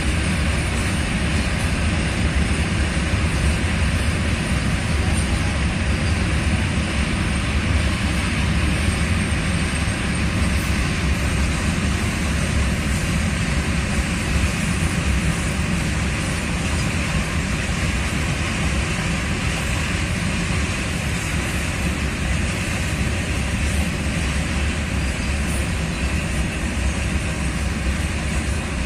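Indian Railways freight train's open and flat wagons rolling past on the track: a loud, steady rumble of wheels on rails.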